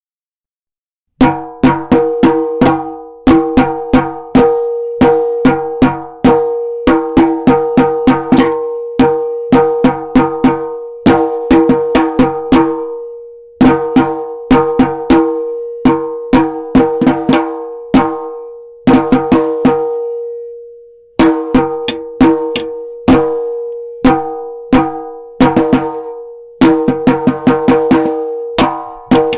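A metal pot struck over and over, each hit ringing on with a clear pitched tone, in irregular runs of quick strikes separated by short pauses. It starts about a second in.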